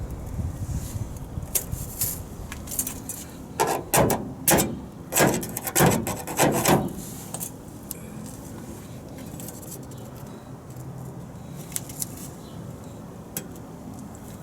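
Masking tape being pulled off the roll in several short, loud pulls between about four and seven seconds in, with a few faint clicks of handling before and after.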